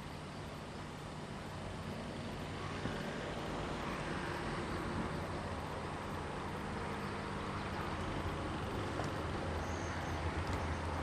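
A vehicle approaching: a steady low hum under a rushing noise that grows louder from about two seconds in.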